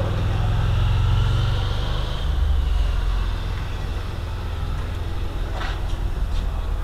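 Wind buffeting the microphone of a helmet-mounted action camera, a loud uneven low rumble, with a short click near the end.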